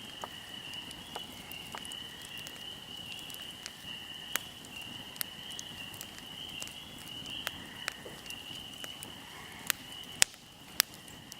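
Fire crackling, with scattered sharp pops, the loudest coming near the end, over a steady high-pitched drone.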